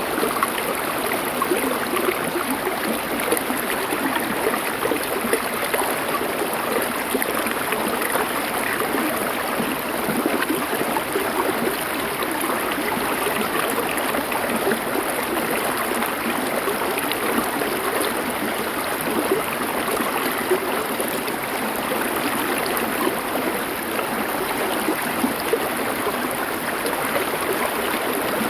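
A small river flowing steadily over stones, with an unbroken rushing and babbling.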